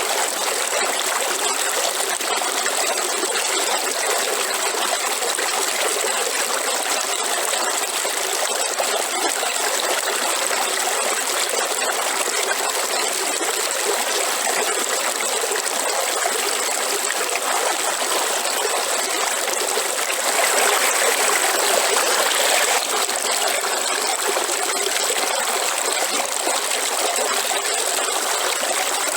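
Waterfall: a steady rush of falling water that swells slightly for a few seconds about two-thirds of the way in.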